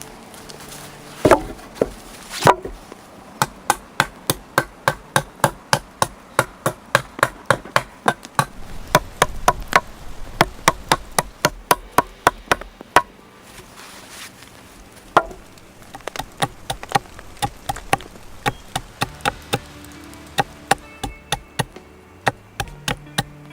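A hand tool striking wood in a fast, regular run of sharp blows, about three a second. The blows pause for a couple of seconds midway, then resume.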